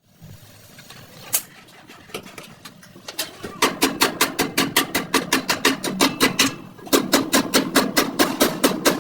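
Hammer striking car body metal in quick, even blows, about five a second, starting a few seconds in and pausing briefly before going on; a single knock comes earlier.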